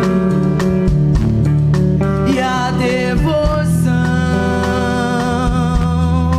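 Live rock band playing an instrumental passage: electric guitars holding sustained melodic notes over bass guitar and a drum kit keeping a steady beat.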